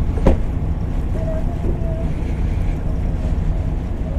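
Motorcycle engine running under a heavy low wind rumble on the microphone, with one sharp click about a third of a second in.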